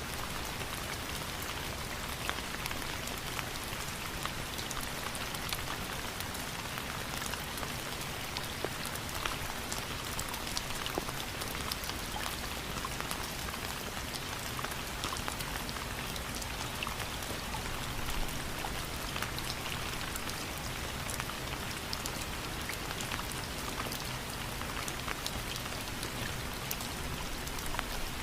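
Steady rainfall, a dense even patter of many drops hitting a surface.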